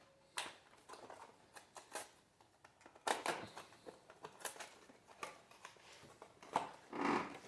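Small plastic toy parts and their packaging being handled: scattered rustling with light clicks and taps, busier about three seconds in and near the end.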